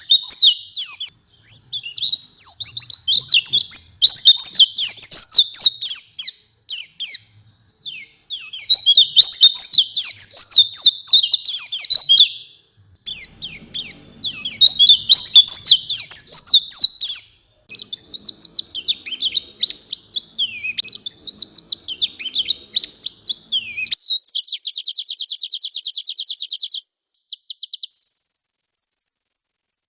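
White-eye (pleci) singing: fast, jumbled high twittering in bouts of a few seconds with short pauses between. Late on it turns into a rapid, even trill, and near the end a steady high buzz starts.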